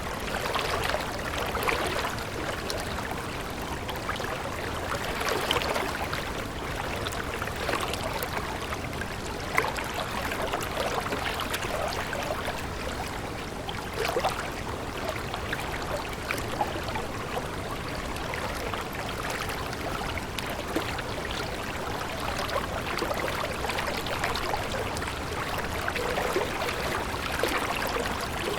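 Stream water running with a steady babble, dotted with many small splashes.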